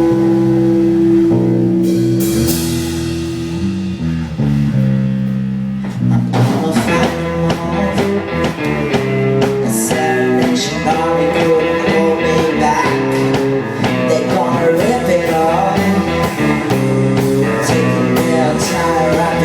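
Live rock band playing an instrumental passage. Held electric guitar chords ring for about six seconds, then the drum kit comes back in with the guitar riff and a wavering lead line over it.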